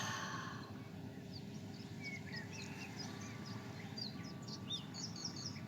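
Small birds chirping: many short, high calls scattered throughout, over a faint steady background hiss.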